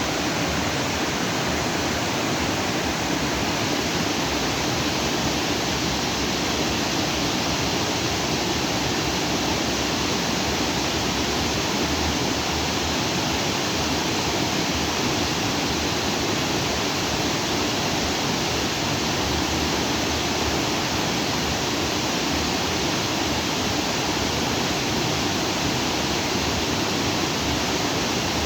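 Stream of lake outflow water rushing steadily over and between rocks.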